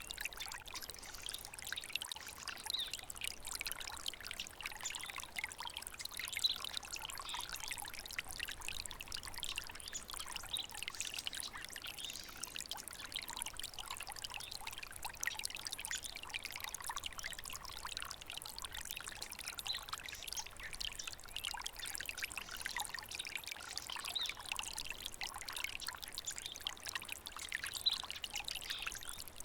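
A small stream of water trickling and splashing steadily.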